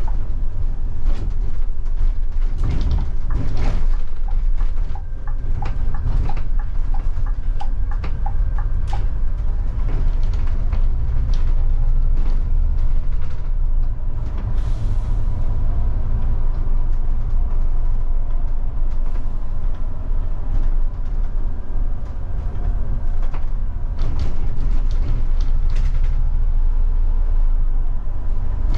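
Scania K250IB bus driving, heard from the driver's seat: a steady low engine rumble with clicks and rattles from the bus body. About five to nine seconds in there is a run of regular ticks.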